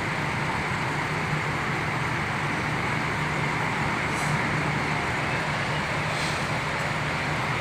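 Hino AK8 bus diesel engines idling steadily in a terminal, with two short hisses of air about four and six seconds in.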